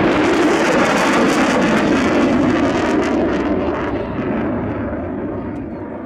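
Jet aircraft engine roar, loud and noisy, slowly fading; its upper hiss thins out about halfway through.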